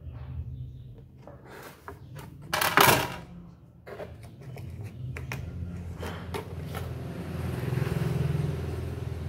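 Clicks and clatter of tools and the plastic and metal parts of an opened air fryer being handled, with one louder rattle about three seconds in, over a steady low hum.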